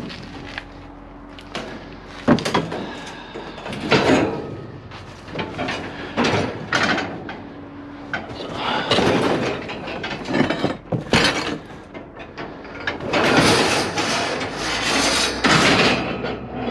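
Scrap metal pieces being handled: irregular sharp clanks and knocks mixed with longer scraping and rattling as pieces are dragged and stacked, the longest scrape near the end.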